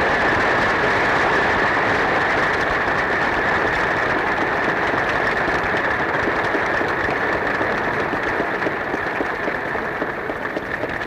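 Audience applauding, heard through a vintage recording. The clapping fades toward the end.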